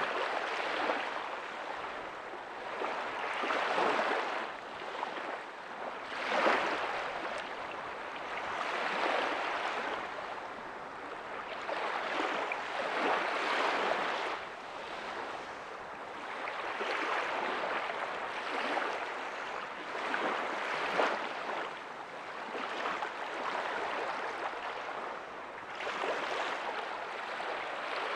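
Small ocean waves breaking and washing up a beach, one soft rushing surge every few seconds over a steady wash of surf.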